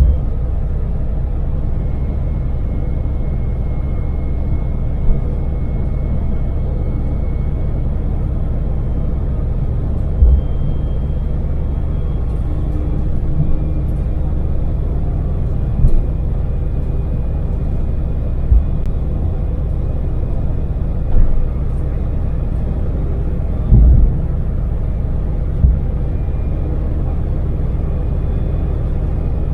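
Daewoo Damas LPG minivan's small three-cylinder engine droning steadily at cruising speed with road noise, heard from inside the cab. Several brief low thumps break through the rumble.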